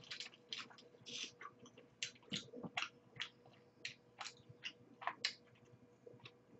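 Faint, close-up chewing and mouth sounds of someone eating soft, cheesy mac and cheese: irregular wet smacks and clicks, a few a second.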